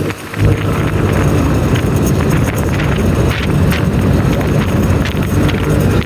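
Motorbike riding along: engine and road noise with wind buffeting the microphone, cutting in abruptly about half a second in.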